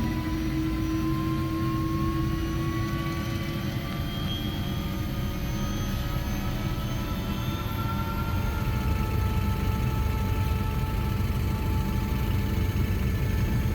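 Helicopter turbine engine and rotor spooling up before takeoff: a steady whine that climbs slowly in pitch over the first several seconds and then holds, over a constant rushing drone.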